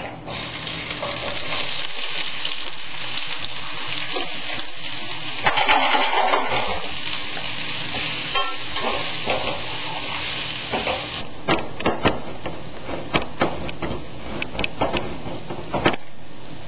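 Food sizzling and frying in a hot stainless-steel skillet just after it is tipped in, with a spoon stirring it around the pan; the sizzle swells for a moment about five seconds in. After about eleven seconds the sizzle drops back and a run of sharp clicks and knocks from utensils and handling takes over.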